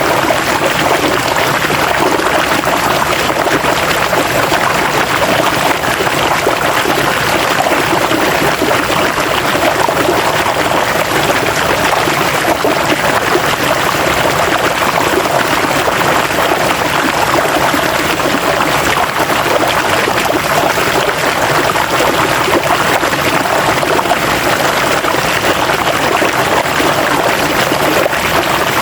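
River water flowing steadily over rocks, a continuous rushing and trickling with no breaks.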